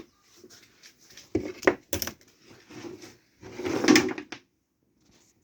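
Handling sounds: a few sharp knocks, then a longer clatter of hard objects being moved about, with no motor running.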